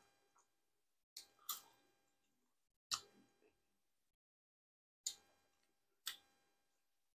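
Close-miked eating sounds: a person chewing with a few sharp, wet mouth clicks and smacks, about five spread across several seconds with near silence between.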